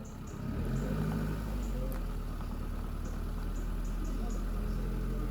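An engine running steadily at idle, with an even low hum that builds up in the first half second and then holds.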